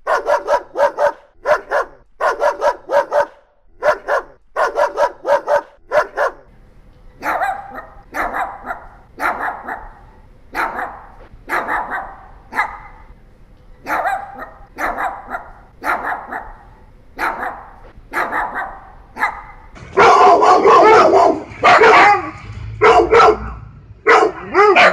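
Dogs barking in a series of short, sharp barks: quick barks in close succession at first, then from about seven seconds in a different dog barking at roughly one bark a second. About twenty seconds in the barking turns much louder, with longer barks that waver in pitch.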